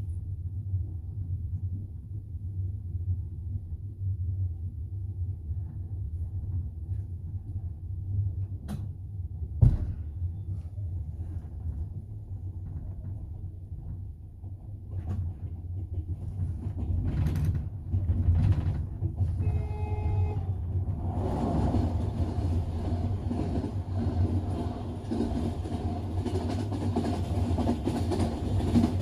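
A moving double-decker passenger train's wheels rumbling steadily on the rails, heard from inside the carriage, with one sharp knock about ten seconds in. A short tone sounds around twenty seconds in, then the running noise grows louder and brighter for the last eight seconds.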